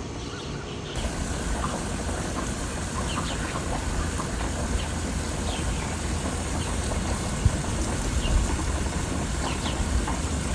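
Small birds chirping in short, scattered calls over a steady low rumble and hiss that comes up about a second in.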